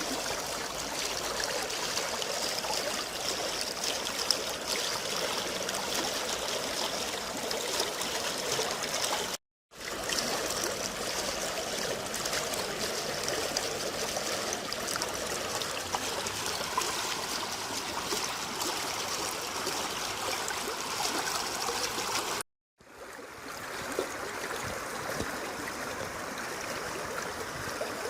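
Water of a wadi's stream, swollen by heavy rain, flowing and rushing steadily. The sound cuts out dead for a moment twice, about a third of the way in and again near the end.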